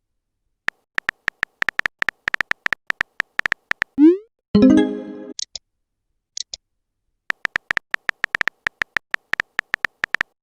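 Phone chat-app sound effects: a run of quick typing clicks, a short rising whoosh about four seconds in, then a brief pitched chime, followed by more quick typing clicks.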